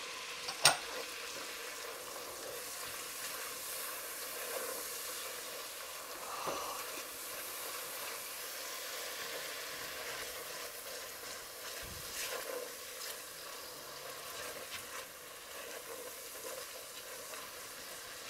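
Minced garlic and ginger sizzling in butter and oil in a pot, stirred with a spatula: the aromatics frying briefly to release their smell. A steady sizzle, with one sharp knock about a second in.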